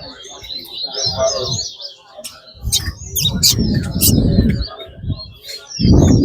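Caged competition finches singing quick, repeated chirping song phrases. A low rumble of other noise rises and falls underneath them.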